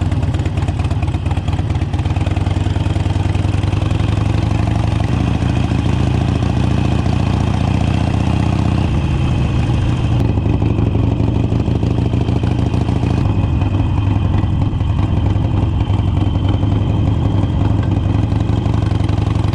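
Motorcycle engine running steadily, close to the microphone, with a change in its note about nine seconds in.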